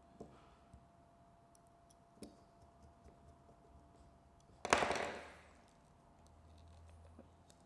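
Handling noise from fitting a bracket to a small camera: a few light clicks, then one louder short clatter about four and a half seconds in that dies away within half a second.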